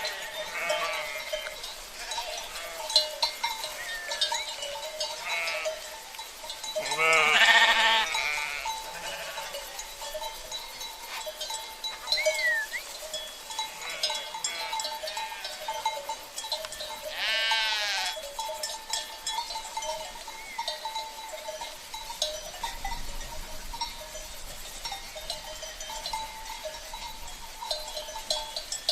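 A flock of sheep bleating, with two loud bleats about 7 and 17 seconds in and fainter ones between, over the steady clinking and ringing of the bells (cencerros) they wear.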